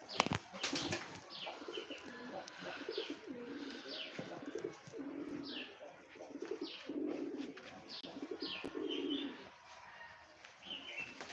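Birds calling: pigeons or doves cooing in short low notes every second or two, over many quick high falling chirps from small birds. A few sharp knocks come just after the start.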